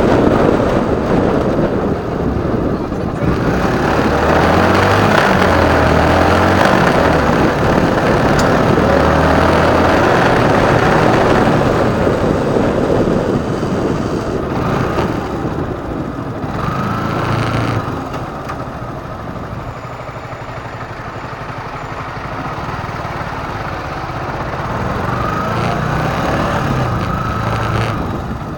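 Motorcycle engine running while riding, with a heavy rush of wind and traffic noise over the first dozen seconds. The sound then drops lower as the bike slows.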